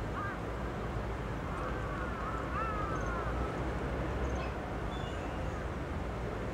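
Steady low outdoor rumble with faint distant bird calls: a few short arching whistles in the middle and some tiny high chips.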